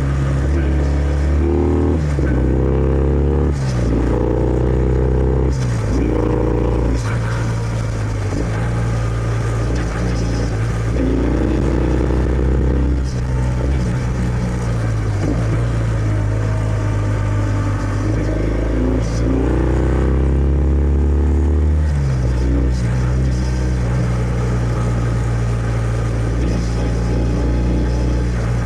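Kawasaki W650's air-cooled parallel-twin engine through its stock exhaust, ridden on the road. The revs climb and drop several times as it pulls through the gears, with stretches of steady cruising in between.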